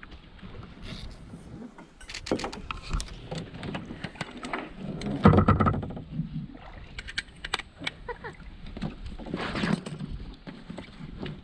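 A canoe or pack boat being handled on the water: irregular knocks and clatter against the hull over water noise, with a louder thump about five seconds in.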